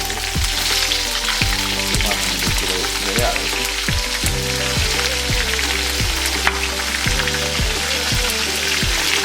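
Chopped vegetables (bell peppers, onion, carrot) sizzling steadily in hot oil with cumin seeds, over background music with a regular beat.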